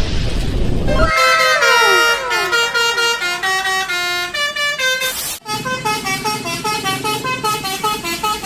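Basuri-style 'telolet' bus horn, a multi-tone air horn playing a tune: a cluster of falling tones, then quick stepping notes. A noisy rush fills the first second.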